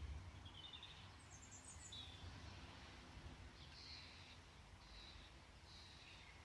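Faint birdsong, short chirps and trills repeating over a low steady rumble.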